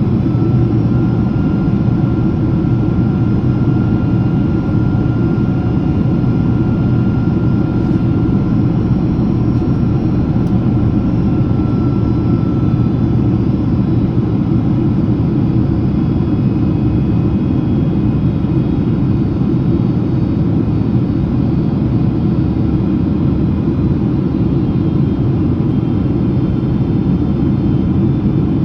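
Cabin noise of a Boeing 767-300ER airliner in descent: a steady, heavy rumble of airflow and engines, with faint steady whines above it. One whine fades out about halfway through.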